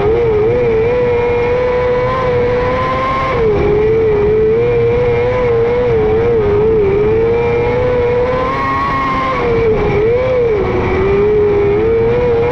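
Micro sprint car's 600cc motorcycle engine running hard on a dirt oval, its pitch held high and wavering. The pitch dips twice, about 3.5 s and 10 s in, as the throttle is lifted, then climbs back.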